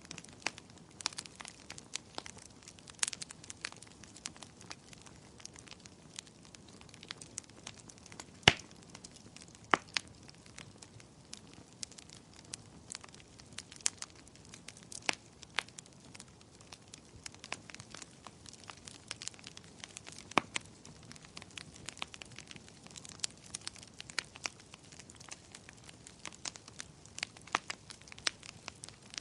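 Wood fire in a fireplace crackling: irregular sharp pops and snaps over a faint hiss, the loudest pop coming about eight seconds in.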